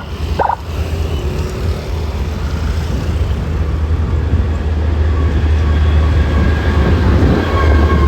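A large road vehicle's engine running close by, a deep steady rumble that grows louder over the seconds. Two short beeps sound at the very start.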